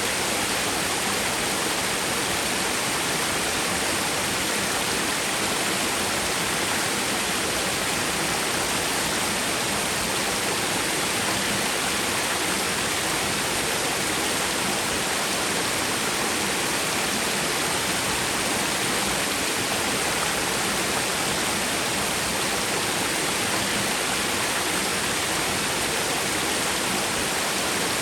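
Small twin waterfall pouring into a mountain stream: a steady, unbroken rush of falling water.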